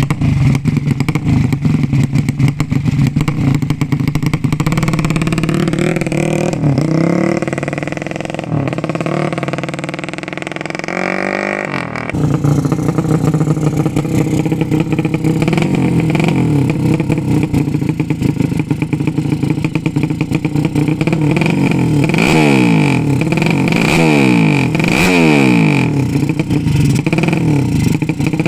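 Tuned 200 cc drag-race motorcycle engine running. Its revs climb over several seconds and drop sharply about twelve seconds in, then it runs steadily before several quick throttle blips near the end.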